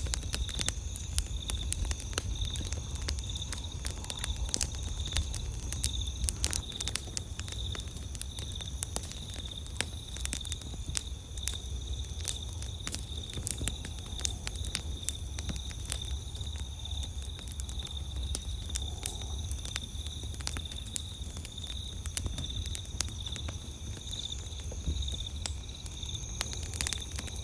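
Campfire crackling with many sharp pops and snaps, over a steady trilling chorus of night insects.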